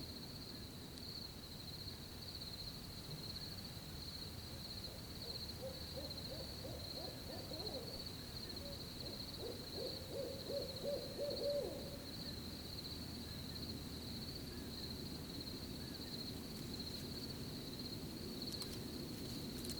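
An owl hooting a run of short hoots in the middle of the stretch, over steady high-pitched cricket chirping.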